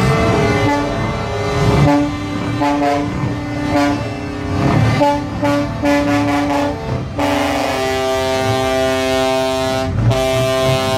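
Truck air horns sounding: a run of short horn notes at changing pitches, then one long chord held to the end. A brief knock comes about ten seconds in.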